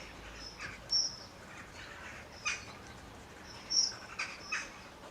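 Small birds chirping: a few short high chirps and some brief harsher calls, over a faint steady background.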